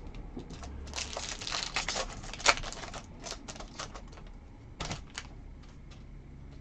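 Trading cards being handled and flipped: a quick run of dry clicks and rustles, then a few separate clicks.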